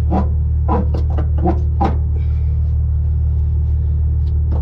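Idling diesel engine of a Peterbilt 379 truck, a steady low rumble. About five short knocks or clanks in the first two seconds, likely from the air-line fittings being handled.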